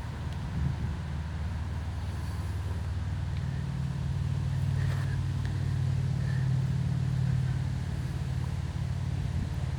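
Low rumble of a passing motor vehicle, swelling about halfway through and easing off near the end.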